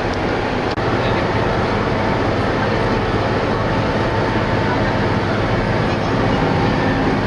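Tour bus engine running with steady road noise, heard inside the bus: a continuous drone with a low engine hum under it.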